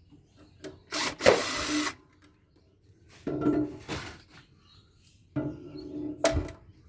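Scraping and clattering of hand tools and metal parts while a solar inverter is taken apart. It comes in three bursts of about a second each, with a knock near the end.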